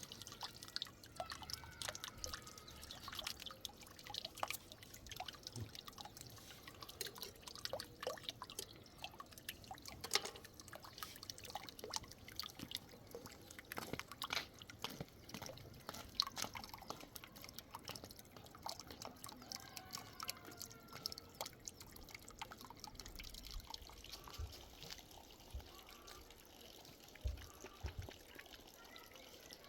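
Irregular small wet ticks and drips, scattered unevenly.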